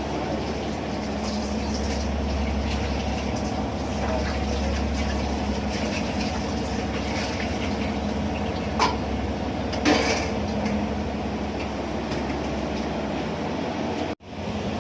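Steady low drone of a ship's engines heard on board, with two brief clatters about nine and ten seconds in.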